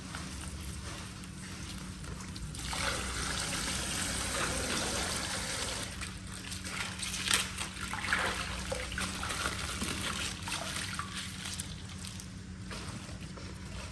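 Coloured water trickling and splashing out of a punctured plastic ice-pack bag, getting louder about three seconds in, with a few short sharper sounds along the way.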